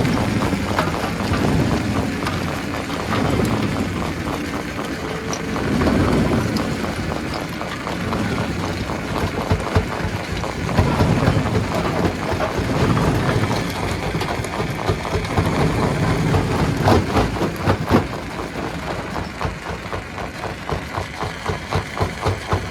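Stone crusher machine running with a heavy rumble that swells and ebbs, under a continuous clatter of rock. Several sharp cracks of stone breaking come in the second half.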